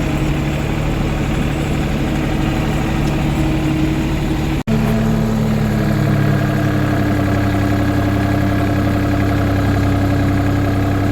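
Engine running steadily. A sudden brief dropout comes about halfway through, after which the engine carries on at a slightly different pitch.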